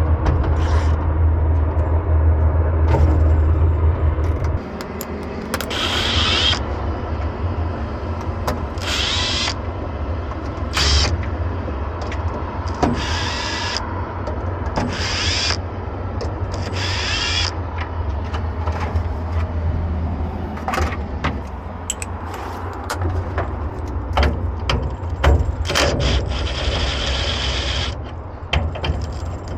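Hand-tool work on electrical cable lugs: short, repeated rasping or ratcheting bursts and scattered metal clicks over a steady low engine-like rumble, which is loudest for the first four seconds or so.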